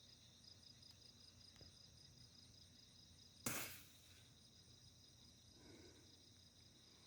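Crickets faintly chirping in a steady pulsing chorus. A single sharp click cuts in about three and a half seconds in and dies away quickly.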